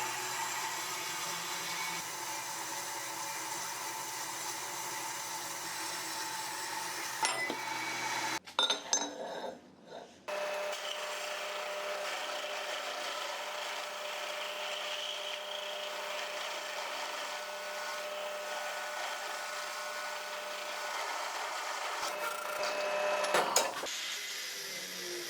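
A workshop power tool running steadily. It cuts off sharply about eight seconds in, and a second steady machine run starts a couple of seconds later, ending with a few knocks near the end.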